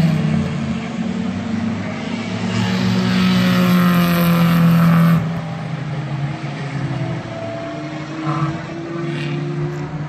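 Race car engine at high revs, holding a steady pitch, then dropping sharply in pitch and loudness about five seconds in. It then climbs slowly again as the car accelerates.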